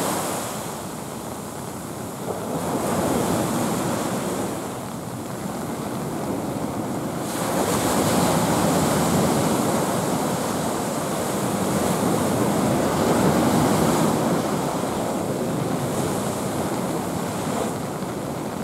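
Rough sea surf, whipped up by an approaching typhoon, washing in as a steady rushing that swells and eases every few seconds, with wind buffeting the microphone.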